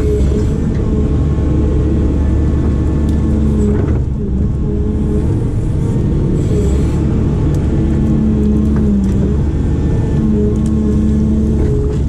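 Diesel engine of a heavy digging machine running under load, with a pitched hydraulic whine that rises and drops away several times as the hydraulics work.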